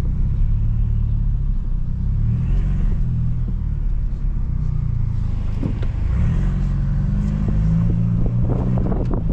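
Stage 2+ tuned BMW F30 328i's turbocharged four-cylinder engine and exhaust droning at low speed, its pitch rising and falling with light throttle.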